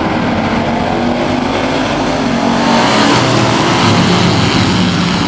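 A field of Thunder Truck race trucks accelerating at full throttle on the restart, several engines running together, growing a little louder about three seconds in as the trucks pass.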